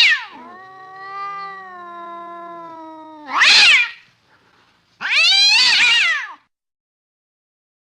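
Domestic cat yowling. A loud call dies away, then comes a low, drawn-out moaning call, then two loud, high meows that rise and fall in pitch.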